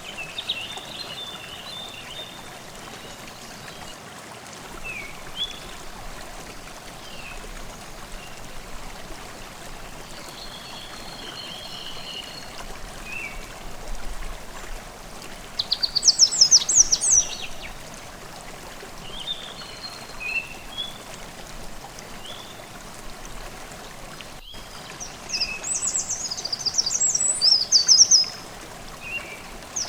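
Forest stream babbling steadily, with songbirds singing over it: short calls scattered through, and two loud fast trills, one about halfway and one near the end.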